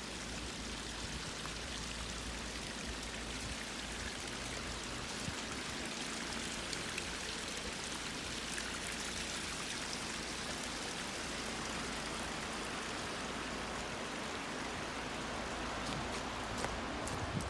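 Steady rushing of flowing stream water, with a few faint clicks near the end.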